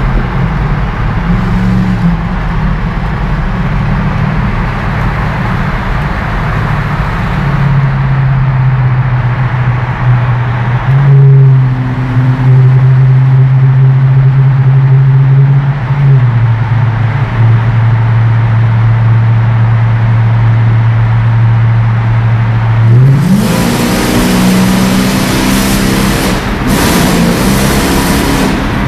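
Supercharged Audi A8 engine running under way with a loud, steady drone. The pitch drops about halfway through, holds low, then rises sharply near the end as the car accelerates.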